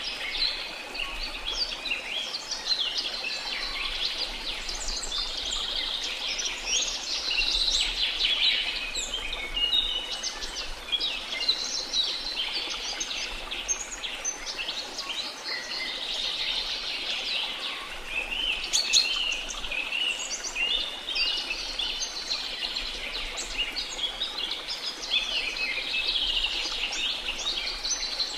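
Many birds chirping and calling in a dense, overlapping chorus over a steady rush of falling water.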